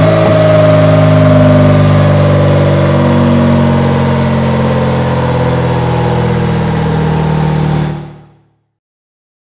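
Triumph Tiger 900 three-cylinder engine running loud at high revs through a Delkevic X-Oval titanium exhaust on a dyno, its pitch slowly falling, then fading out about eight seconds in.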